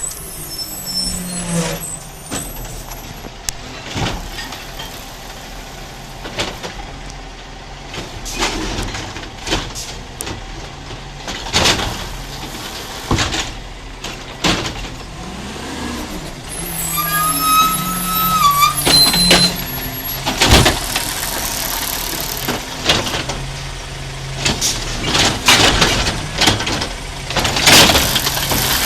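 Garbage truck running, with repeated sharp clanks and knocks and a brief squeal about two-thirds of the way in, followed by a longer stretch of louder noise.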